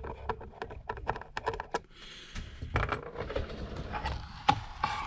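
Light, rapid clicks and taps of small metal repair tools and parts against an opened iPad Pro's frame while a battery screw is put in, with a short stretch of rustling handling about two seconds in.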